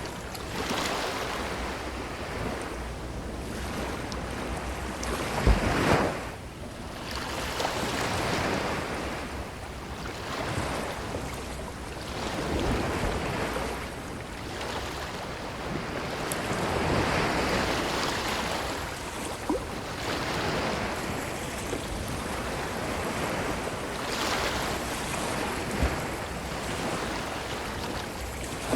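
Ocean surf breaking on a beach and washing up the shore, swelling and falling back every few seconds. The loudest break comes about six seconds in.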